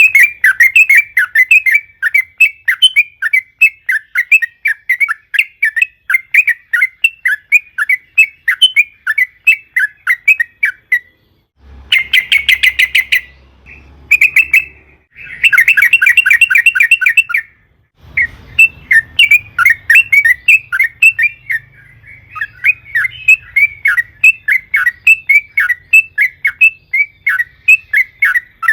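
Yellow-vented bulbul singing gacor: a long, busy run of quick repeated chattering notes, with a faster rapid trill, the 'ropel', breaking in twice about halfway through.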